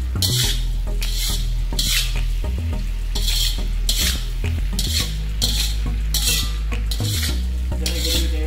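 A slotted spatula scraping and stirring chicken, onion and capsicum around a black metal wok in repeated strokes, roughly one or two a second, over the sizzle of frying. A steady low hum runs underneath.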